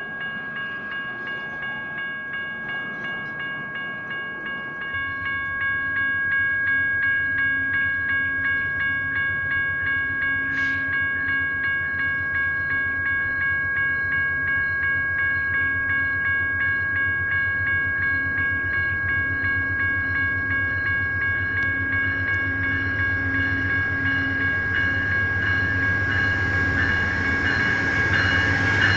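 Crossing signals' General Signals Type 1 electronic bells ringing in a steady, rapid pulse. About five seconds in, the low rumble of a diesel locomotive comes in and builds slowly as a train nears the crossing.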